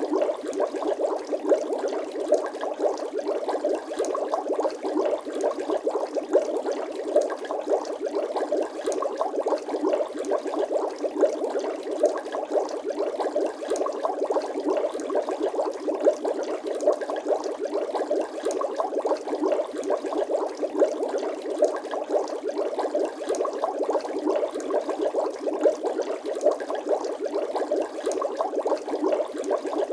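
Bubbling water sound effect: a steady, dense stream of small bubbles popping and gurgling.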